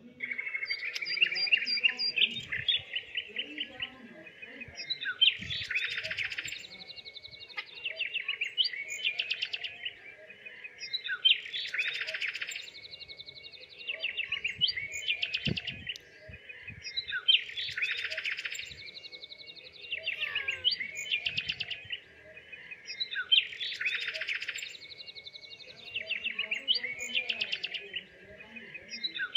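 Small songbird chirping with quick trills. The same run of calls comes back about every six seconds.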